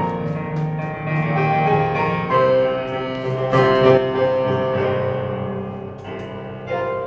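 Soft background piano music: chords and a slow melody, with the notes changing every second or so.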